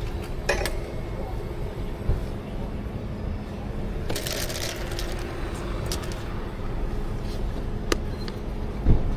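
Coffee-truck work sounds: a steady low hum and rumble with scattered sharp clicks and knocks of barista equipment, and a short hissing rush about four seconds in.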